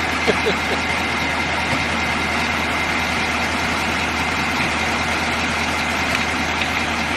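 KAMAZ truck's diesel engine running steadily, driving the makeshift washing rig, with a couple of brief squeaks about half a second in.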